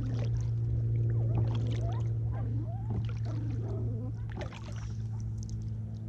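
Kayak paddle strokes in lake water, a stroke about every second and a half, over a steady low hum.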